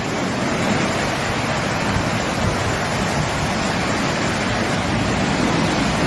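Steady rushing noise of a rain and wind storm, with no distinct events.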